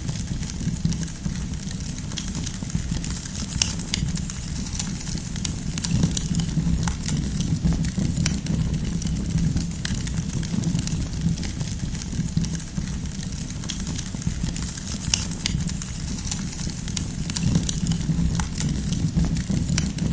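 Campfire crackling: burning firewood gives off scattered sharp pops and snaps over a steady low rumble.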